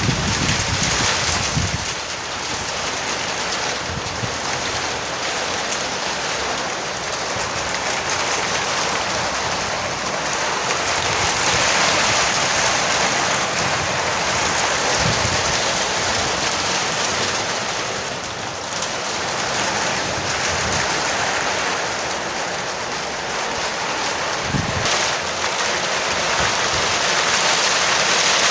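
Heavy rain drumming steadily on a veranda roof, swelling and easing slowly, with a few soft low rumbles.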